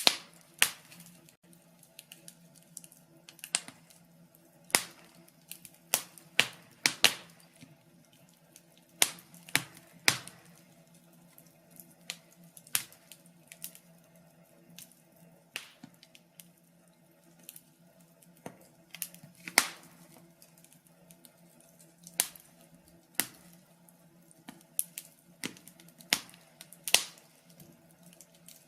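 Wood fire crackling: irregular sharp pops and snaps, one or two a second, over a faint steady hum.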